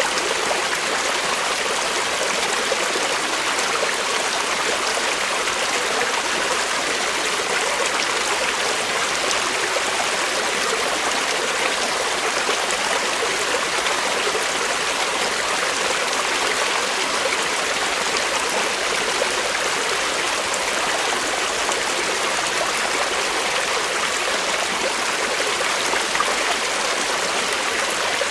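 Creek water flowing over rocks, a steady rushing and trickling with no letup.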